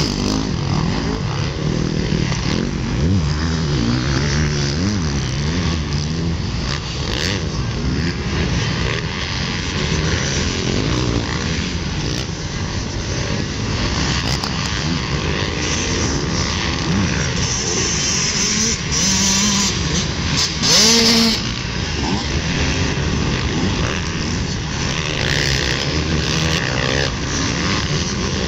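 Several motocross dirt bikes running on a track, their engines revving up and down at different pitches. A brief, louder rush of noise comes about two-thirds of the way through.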